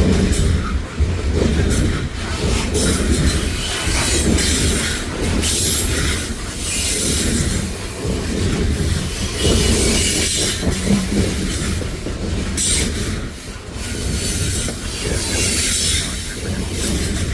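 Canadian Pacific coal train's cars rolling past: a continuous rumble from steel wheels on rail, with irregular clacks as the wheels cross rail joints.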